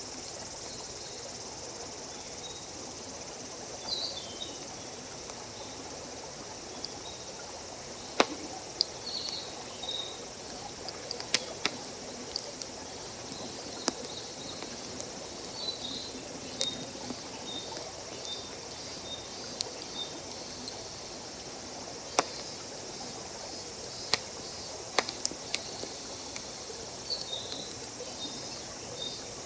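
Wood campfire crackling, with scattered sharp pops, over a steady background hiss. Short high chirps recur through it.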